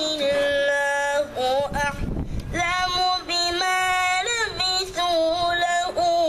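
A boy's voice reciting the Quran in a melodic chanted style, holding long, high notes with ornamented turns between them and a short break about two seconds in.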